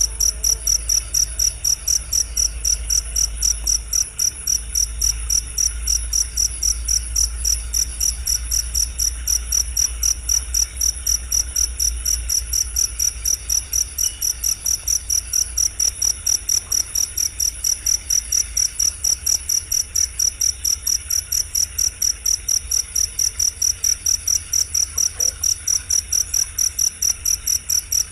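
Cricket chirping in a fast, even rhythm of about three high-pitched chirps a second, repeated without a break as a training recording for songbirds.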